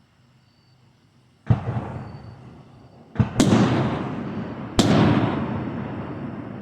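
Aerial firework shells bursting: four sharp bangs, the middle two close together, each trailing off in a long rolling echo.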